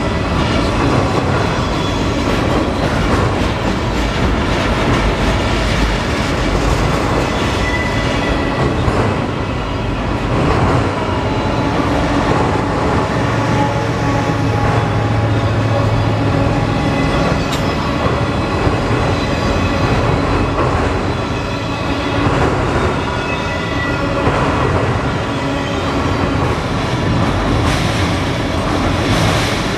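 Canadian Pacific freight train rolling steadily past, its railcars' steel wheels clattering over the track with faint intermittent wheel squeal.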